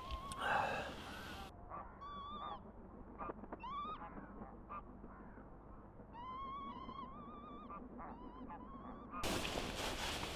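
Wild birds calling: short pitched calls, some rising sharply, in a bout about two seconds in and another from about six to nine seconds.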